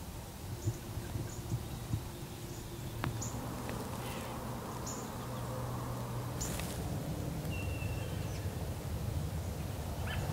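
Early-morning woodland ambience: scattered short, high bird chirps over a steady low background hum, with a few soft clicks in the first two seconds.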